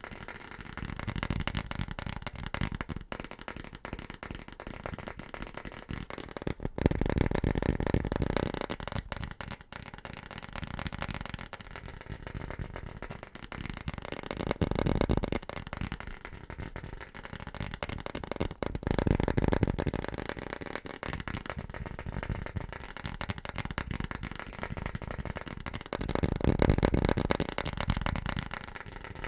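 Fast, aggressive tapping on household objects: a dense run of rapid taps and clicks that grows louder in four stretches of a couple of seconds each.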